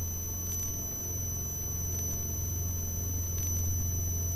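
Steady low hum with a thin, constant high-pitched whine on the aircraft's intercom and radio audio feed between transmissions.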